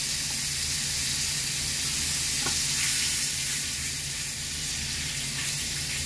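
Paneer slices shallow-frying in hot spiced oil in a pan, a steady sizzle.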